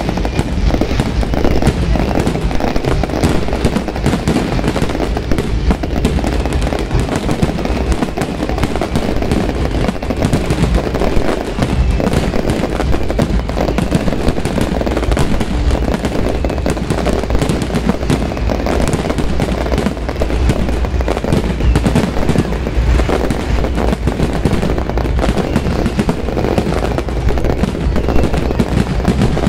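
Fireworks going off in a dense, unbroken barrage of crackles and bangs.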